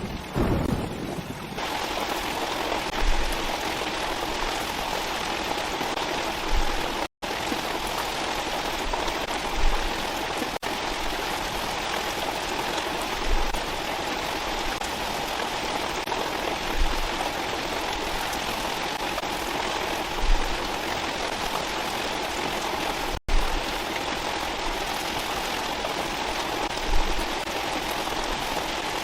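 Steady heavy rain, an even hiss of falling water, with a soft low thump every three to four seconds. The sound drops out for an instant twice.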